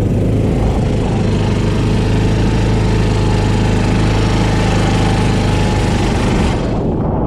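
Small kart engine running steadily at speed, an even mower-like drone; the sound turns duller near the end as the engine eases off.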